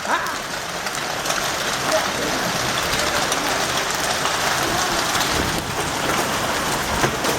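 Heavy hail and rain pelting down: a dense, steady hiss of falling water with many sharp hailstone impacts scattered through it.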